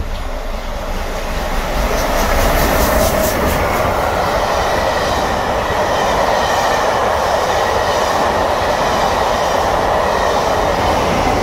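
A train running on rails with a steady loud rumble and clatter, and a quick run of rail clicks a couple of seconds in.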